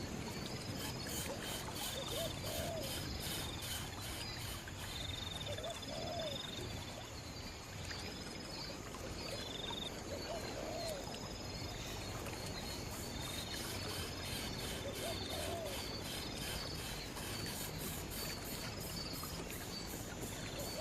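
A bird giving a short, low, arched call about every four to five seconds, over steady outdoor background noise with faint higher chirps.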